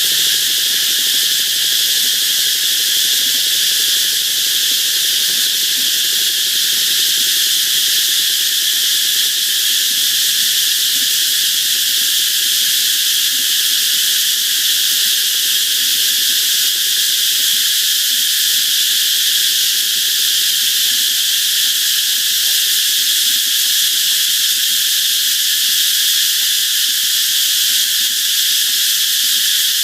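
A dense chorus of cicadas: one steady, shrill drone with no pauses or changes in pitch.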